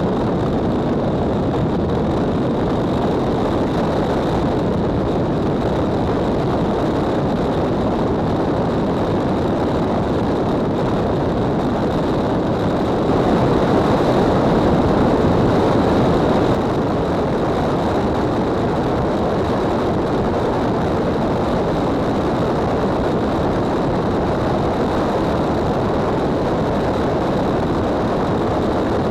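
Steady rushing noise of a moving vehicle, a little louder for a few seconds around the middle.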